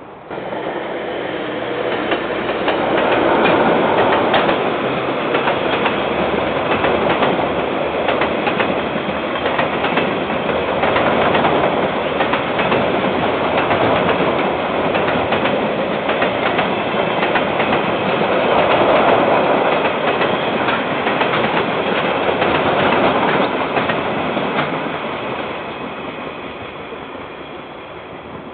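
A KiwiRail train rolling past, with wheels clicking over the rail joints. The sound cuts in suddenly, already loud, then swells and eases several times as the train goes by, and fades away over the last few seconds.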